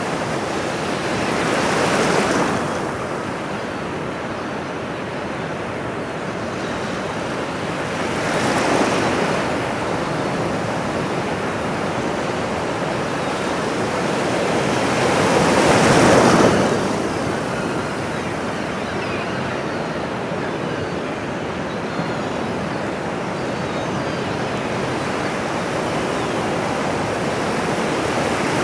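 Ocean waves washing on a shore, a steady wash with three swells breaking about 2, 9 and 16 seconds in, the one near 16 seconds the loudest.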